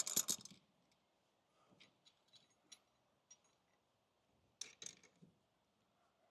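Hand tools clinking and clicking against a car's rear brake caliper: a loud cluster of sharp clicks at the start, a few small scattered ticks, then two or three more clicks near the end.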